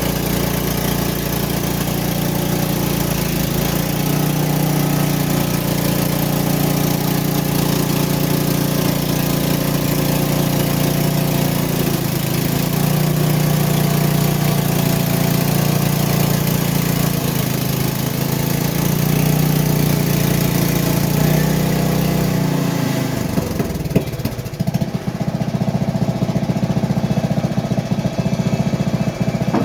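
Frontier OS23 portable band sawmill's small gasoline engine running steadily at speed. About 23 seconds in, its pitch drops and it settles into a lower, rougher running.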